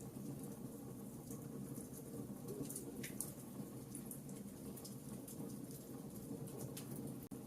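Campfire burning with a steady low rumble of flames and frequent irregular crackles and pops of burning wood. The sound drops out for an instant near the end.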